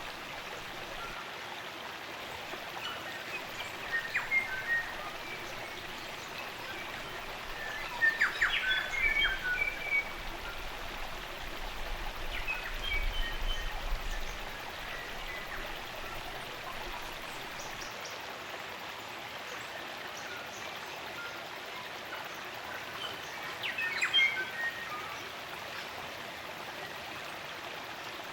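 Spring-fed stream running steadily, with native New Zealand songbirds calling in short runs of chirps and whistles about four seconds in, several times between eight and fourteen seconds, and again near the end.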